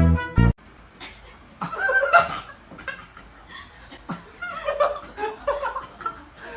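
A person laughing and chuckling in short bouts. A music jingle cuts off about half a second in.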